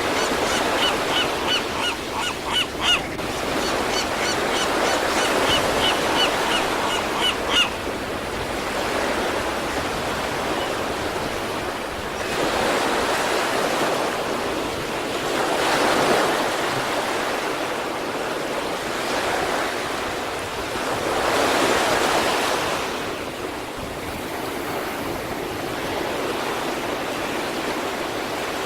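Sea waves breaking and washing up the shore in a steady rush of surf, swelling as bigger breakers come in about 12, 16 and 22 seconds in. Over the first eight seconds a quick run of short, high chirps sounds above the surf.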